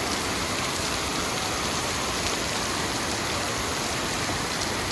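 Steady rush of water from the waterfall and its creek, mixed with rain falling, with a few faint drip ticks.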